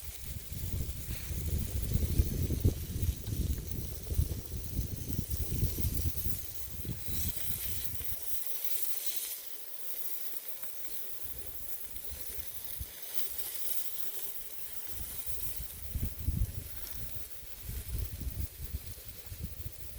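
Wind buffeting the microphone in gusts, strongest for the first several seconds and easing after about eight seconds, over a steady outdoor hiss.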